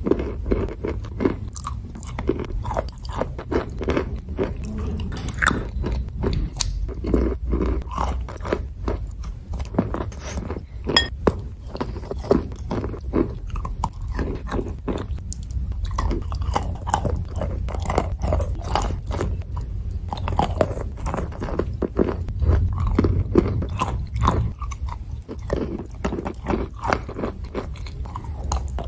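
Chalk being bitten and chewed close to the microphone: a continuous run of crisp crunches and grinding chews with no pause.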